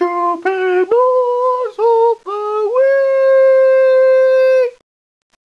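A voice humming or singing a short wordless tune: five short notes with slight slides between them, then a higher note held for about two seconds that stops shortly before the end.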